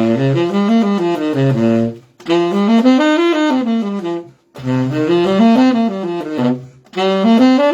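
Saxophone playing minor pentatonic scale runs, four short phrases that each climb and fall, each starting on a different note. This is the pattern being moved through a cycle of fifths.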